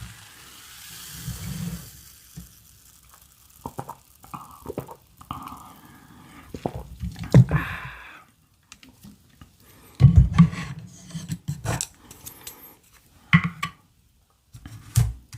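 A drink being poured and handled close up: dripping liquid with scattered sharp clicks and knocks of a cup and bottle, and several short low thumps.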